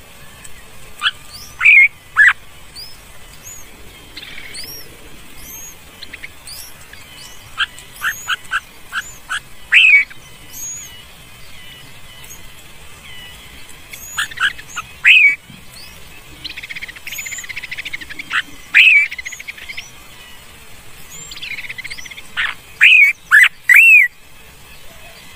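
Birds chirping and calling: loud, sharp curved chirps in clusters every few seconds, including a quick run of short notes, over thinner high chirps.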